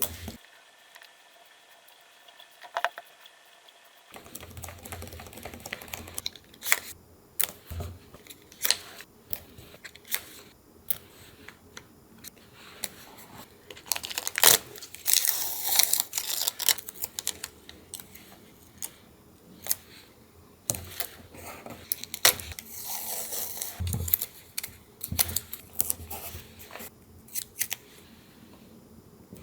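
Paper and stationery being handled for a collage: scattered taps and clicks with rustling and crinkling of paper, loudest in a stretch of rustling about halfway through. The first few seconds are nearly quiet.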